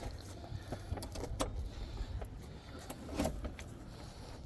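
Wind rumbling on the microphone, with a few faint clicks and knocks.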